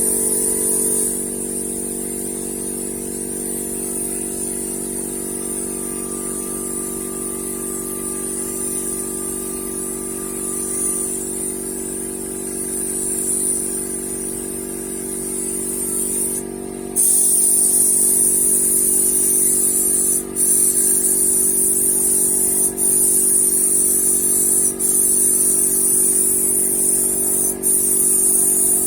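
Paint spray gun hissing over a steady hum. The hiss drops back about a second in, then comes back strong for the last third in long bursts broken by a few short pauses.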